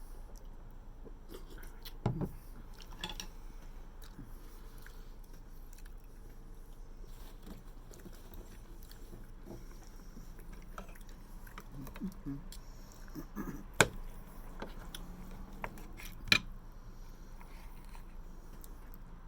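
Close-up eating sounds: chewing and biting with soft wet mouth noises, broken by a few sharp clicks, the loudest about two, fourteen and sixteen seconds in.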